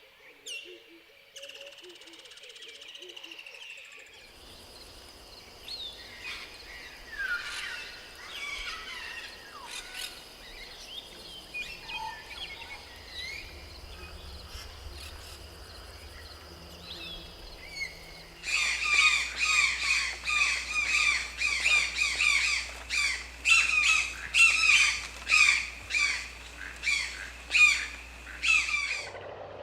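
Rainforest ambience with scattered bird calls. About two-thirds of the way in it gives way to a loud run of repeated bird calls, about two a second.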